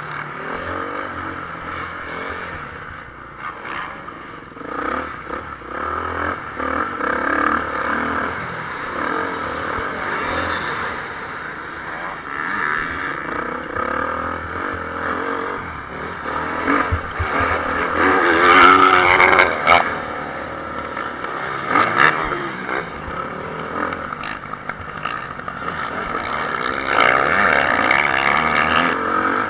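Motocross bike engines revving up and down as several bikes race on the track, with one passing loudest about two-thirds of the way through.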